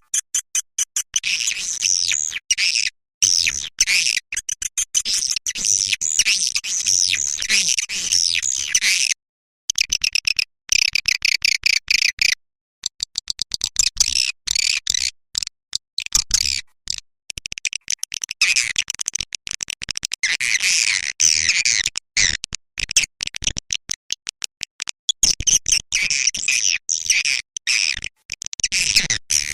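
Swiftlet lure call: a dense, high chattering twitter of edible-nest swiftlet calls, broken throughout by many short gaps of silence.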